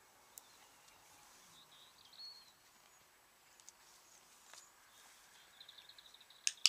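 Quiet outdoor ambience with faint high bird chirps, a quick run of rapid chirps shortly before the end, and two sharp clicks right at the end.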